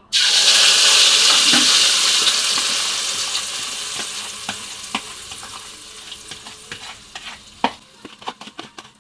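Ground chili-and-shallot spice paste dropped into hot oil: a sudden loud sizzle that slowly dies down over several seconds, breaking into scattered crackles and pops near the end as the paste sautés.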